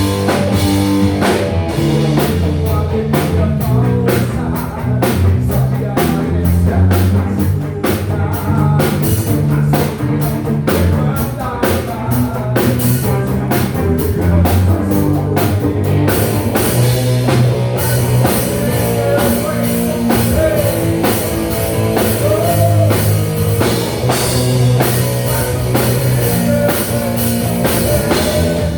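Rock band playing live: drum kit keeping a steady beat under guitar and sustained low notes.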